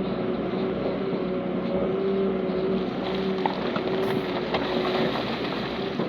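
Heavy diesel engine of an earthmoving machine running steadily under load, with a few light metallic clanks about three and a half and five seconds in.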